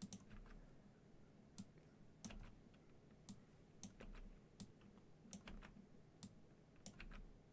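Faint, irregular clicking of a computer mouse and keyboard, about a dozen sharp clicks spread unevenly, while drawing pixels by hand in a graphics editor.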